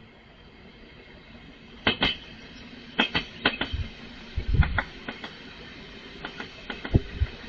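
Train rolling past, its wheels clacking over the track joints, often in quick pairs, over a low steady rumble. The clacks start about two seconds in.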